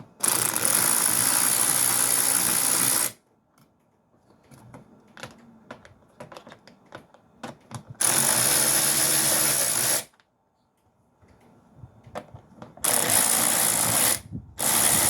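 Handheld power tool running in four bursts, the first about three seconds long and the others shorter, as it drives engine-mount bolts, with light clicks of metal handling between.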